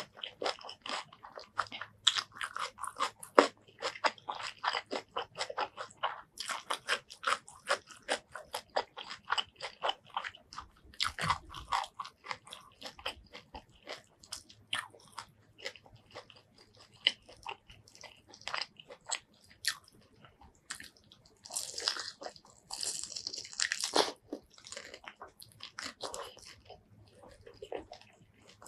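Close-miked crunching and chewing of crispy fried chicken: rapid crackling bites that come in runs throughout, with a louder crackly stretch of tearing and crunching about three quarters of the way through.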